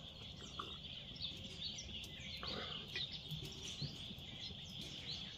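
Outdoor summer ambience: birds chirping in scattered short calls over a steady high-pitched drone, with a faint knock about halfway through.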